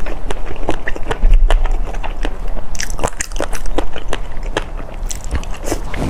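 Close-miked biting and chewing of crunchy food, a quick irregular run of sharp crunches, with a heavier low thump a little over a second in.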